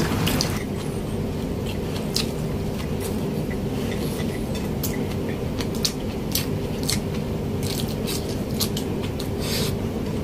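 Close-up eating sounds: a person chewing pork adobo wrapped in lettuce, with many short, sharp wet clicks from the mouth and leaves over a steady low hum.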